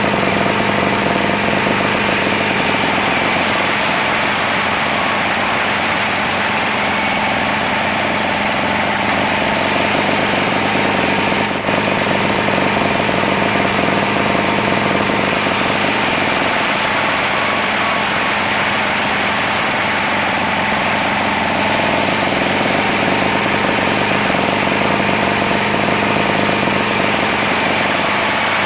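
Log sawmill running: engine and saw make a loud, steady mechanical noise with a steady whine, dipping briefly about twelve seconds in.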